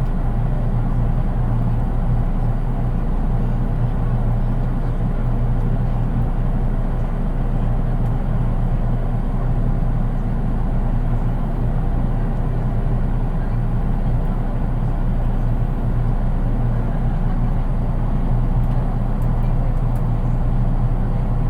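Cabin running noise inside a JR East 183 series DC electric train, heard from its unpowered KuHa 183 driving trailer car: a steady low rumble of wheels and bogies on the rails. With no traction motors under this car, there is little motor whine and the sound is plain and even.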